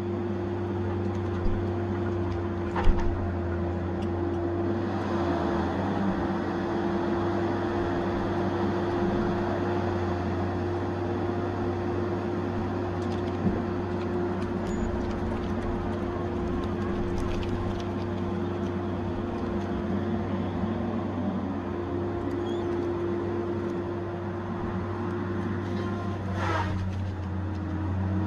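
Tigercat 870C feller buncher running steadily, a constant engine drone with a steady whine on top, broken by a few sharp knocks, the loudest about three seconds in.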